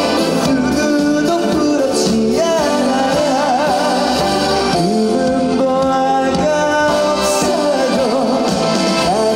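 Male trot singer singing a song live over instrumental accompaniment, his voice wavering in vibrato on held notes.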